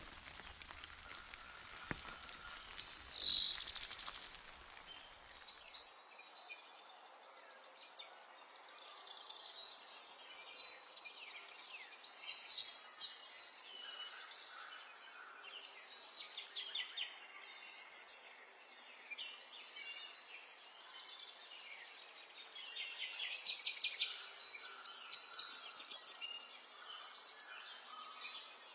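Songbirds chirping and singing in short bursts of rapid high notes every few seconds, over a faint steady hiss. About three seconds in, one loud sweeping whistled note stands out.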